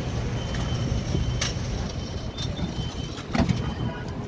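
A motor vehicle running with steady street traffic noise, crossed by a few sharp clicks and knocks, the loudest about three and a half seconds in.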